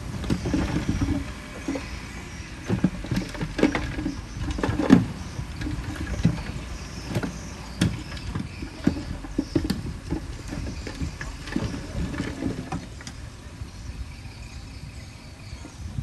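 Heavy earthmoving machinery working: a diesel engine running with a low rumble, under irregular clanks and knocks, the loudest about five seconds in.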